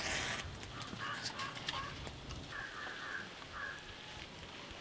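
A bird calling in the background, several short calls in a row, over quiet outdoor ambience.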